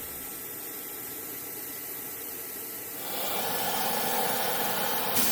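Steady rushing mechanical noise that gets louder about three seconds in.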